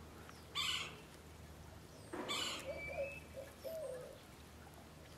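A bird calling softly, a few short, low notes that bend up and down, starting about two and a half seconds in. It comes with two brief bursts of hiss, about half a second and two seconds in, over a faint steady low hum.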